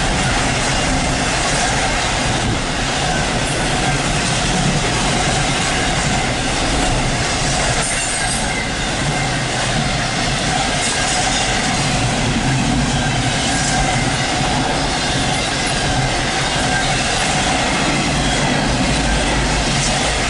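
CSX intermodal freight train's container well cars rolling past: a steady rumble and clatter of steel wheels on the rails.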